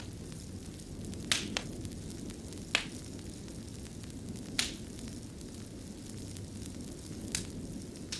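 Wood fire burning in a fireplace: a steady low rumble of flames with about six sharp crackles and pops scattered through it.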